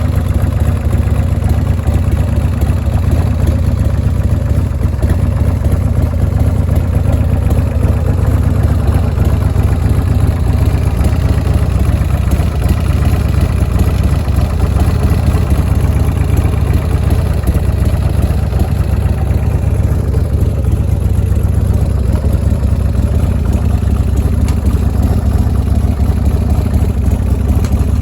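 Buell motorcycle engine running steadily without revving, a continuous deep exhaust note.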